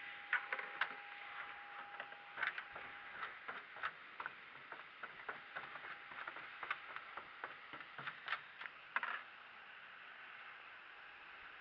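Irregular light clicks and taps over a steady hiss, stopping about nine seconds in.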